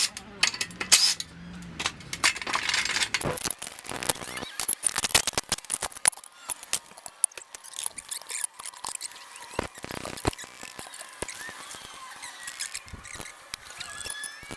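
Irregular metal clicks, clinks and scrapes with faint squeaks: hand work on exhaust parts while a header is worked into place, with two short rattling runs about four and ten seconds in.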